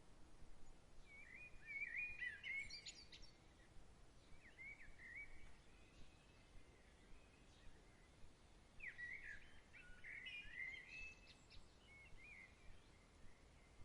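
Faint songbird singing in short, quick-warbling phrases, three bouts: one about a second in, a shorter one around four seconds in, and a longer one from about nine seconds in. A faint steady outdoor hiss lies underneath.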